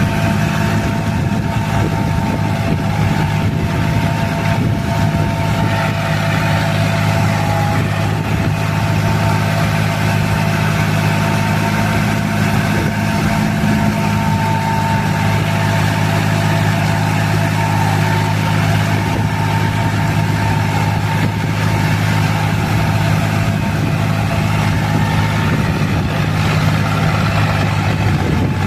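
John Deere tractor's diesel engine running at a steady speed.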